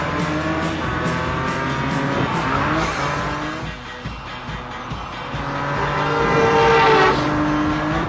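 Cartoon race-car engine sound effects revving up and down in pitch, loudest about seven seconds in, over background music.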